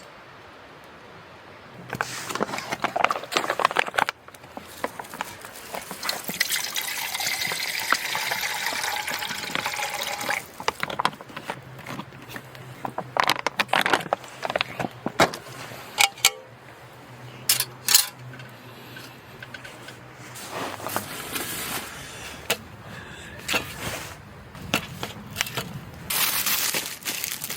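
Liquid poured into a vessel for about four seconds, amid the knocks and clicks of camp cookware being handled.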